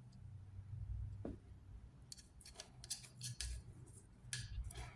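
Faint scattered light clicks and taps of small parts being handled while oil is applied, a cluster of them from about two seconds in, over a low steady hum.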